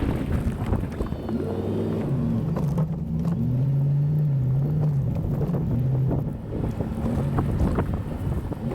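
Chevy 1500 pickup engine running while plowing snow, its pitch rising and falling, over a steady low rumble of noise.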